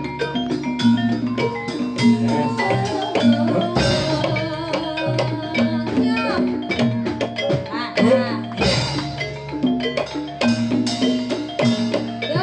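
Gamelan ensemble playing Jathilan dance music: struck metallophones ringing over steady low notes, with drum beats and a voice joining in at times.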